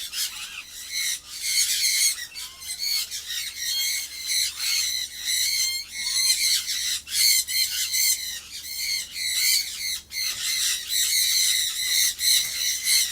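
A flock of sun conures screeching, really loud, with many shrill, harsh calls overlapping without a break.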